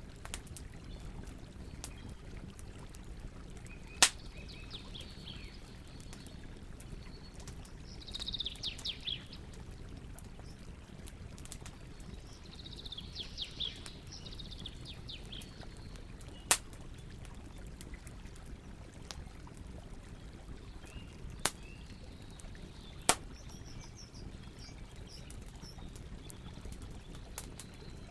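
Campfire crackling, with a few sharp single pops from the burning wood over a steady low rush of river water. Birds chirp and call on and off.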